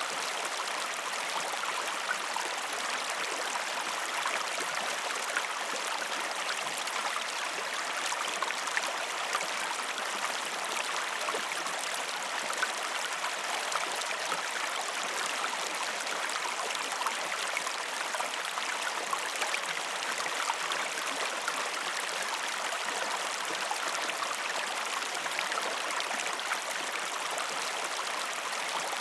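Waterfall: water splashing and rushing steadily, an even hiss with fine spattering and no deep rumble.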